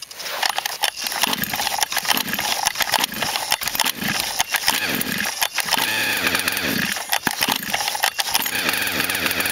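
Small gas engine fitted with a 644 carburetor, running with the choke on after starting up, its speed surging up and down unevenly.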